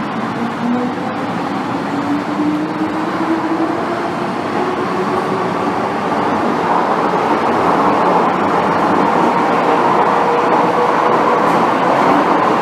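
MTR M-Train electric multiple unit heard from inside the carriage, accelerating. Its traction motor whine climbs in pitch over the first few seconds, and the running and rail noise grows steadily louder.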